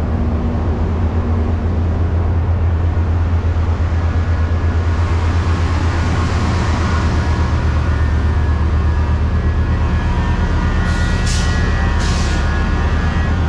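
Steady low rumble of a double-deck commuter train heard from inside the passenger coach, with two short air hisses about eleven and twelve seconds in.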